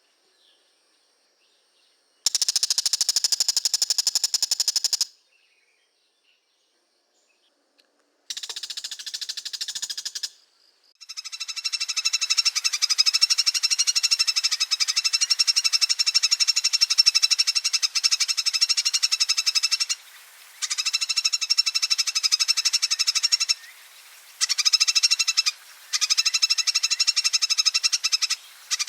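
Oriental magpie-robin (kacer) giving its rapid, rattling 'ngekek' chatter in three bouts. A short burst comes about two seconds in and another around eight seconds, then a long chatter from about eleven seconds on is broken by a few short pauses.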